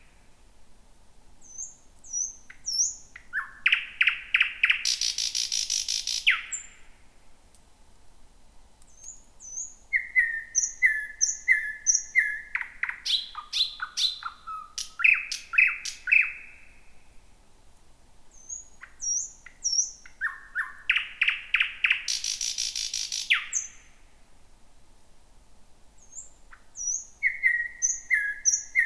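Thrush nightingale singing: phrases of rapid repeated notes with thin high whistles between them, several seconds apart. Two of the phrases build into a long, harsh rattle.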